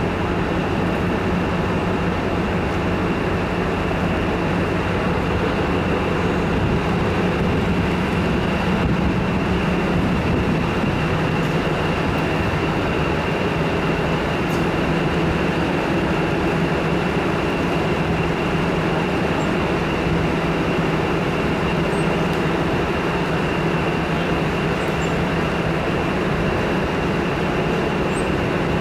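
Diesel multiple unit train running with a steady engine drone and a thin high whine above it.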